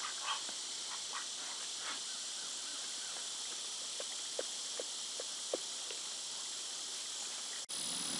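Steady high-pitched chorus of crickets or other insects, with a few faint short chirps about four to five seconds in.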